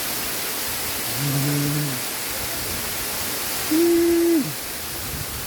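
Waterfall rushing steadily. Over it come two long, drawn-out calls from people's voices: a low held call about a second in, and a higher one near the end that drops in pitch as it fades.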